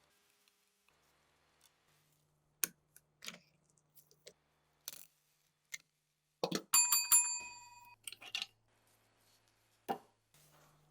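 Metal parts clinking and knocking as they are handled and set down, a handful of separate clicks. About two-thirds of the way through, one piece rings out briefly with a clear bell-like tone.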